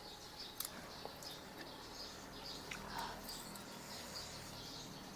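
Small birds chirping repeatedly in the background, with a few sharp clicks in the first second.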